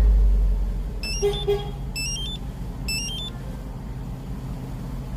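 Range Rover Sport SVR's supercharged V8 settling from its start-up flare to a steady idle. Three short rising sequences of electronic chime tones sound about a second apart over the idle, with two brief lower beeps between the first two.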